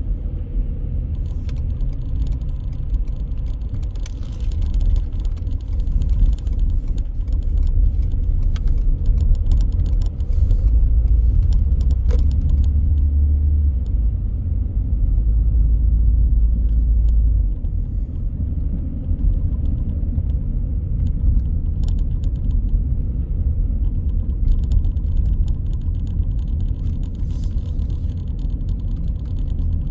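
A car driving: a steady low rumble of road and engine noise, growing heavier for several seconds in the middle.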